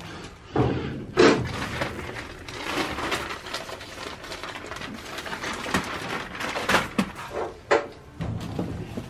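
Flexible duct's insulation and plastic outer jacket being pulled over a duct joint: a rustling, crinkling noise broken by several sharp knocks, the loudest about a second in.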